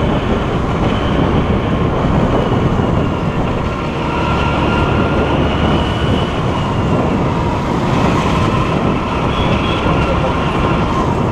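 Steady rush of wind and road noise from a scooter being ridden, with the scooter's engine running underneath and faint high whining tones holding steady.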